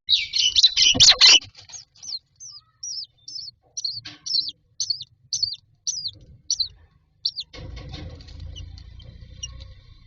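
Common myna chicks giving shrill begging calls: a loud, dense burst of calls in the first second and a half, then a run of short, high, down-slurred notes about two a second. Near the end the calls stop and a low rustling takes over.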